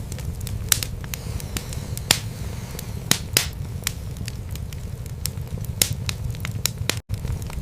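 Wood fire burning in a fireplace: sharp crackles and pops at irregular intervals over a steady low rumble of flame. The sound cuts out for an instant about 7 seconds in.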